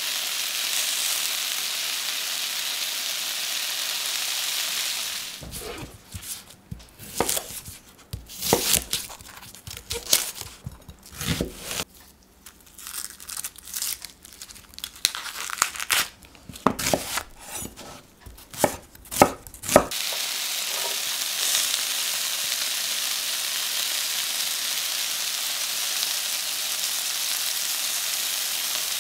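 Oil sizzling steadily in a frying pan of cherry tomatoes and potatoes. About five seconds in this gives way to a shallot being peeled and cut with a knife on a wooden cutting board: irregular sharp knocks and papery tearing. About twenty seconds in, the steady frying sizzle returns as the chopped shallot cooks.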